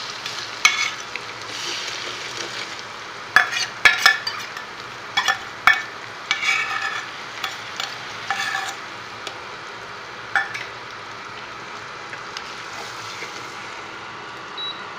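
Spice paste hitting hot oil and fried onions in a steel pan, sizzling steadily. A metal spoon scrapes and clinks sharply against the steel bowl and pan several times, mostly in the first half.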